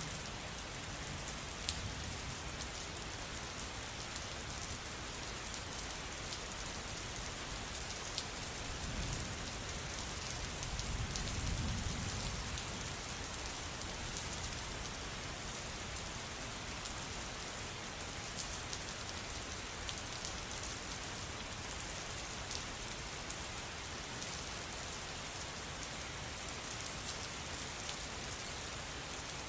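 Steady rain falling, an even hiss with a few scattered drop ticks. A low rumble swells and fades about a third of the way in.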